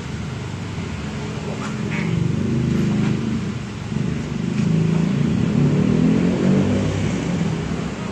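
A vehicle engine running, rising and falling a little in level, with a few faint clicks.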